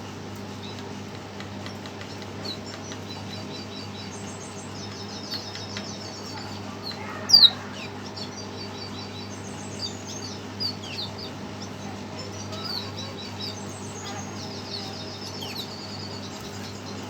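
Red siskin chirping and twittering in an excited, fired-up state: quick high chirps and short trills, with one sharp louder call about seven seconds in, over a steady low hum.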